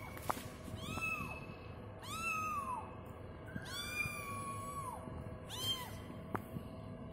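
A kitten meowing four times, each a high-pitched call that rises and falls; the third meow is the longest.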